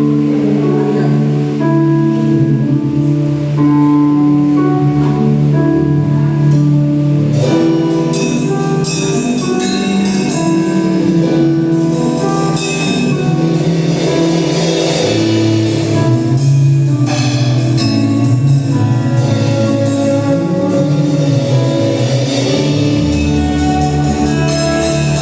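Church worship band playing an instrumental passage: held chords alone at first, then a drum kit with cymbals comes in about seven seconds in and the band plays on.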